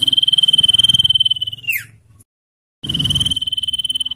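Common iora giving its long trilled whistle: a fast, even trill held on one high pitch, ending in a quick downward slide. A second call starts about three seconds in, after a brief gap of silence.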